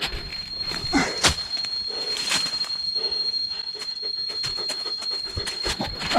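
Zip line trolley running along its steel cable: a rolling, squealing whir, with a steady high whine over it. Many short clicks and knocks are mixed in, and two sharp cracks come about a second in.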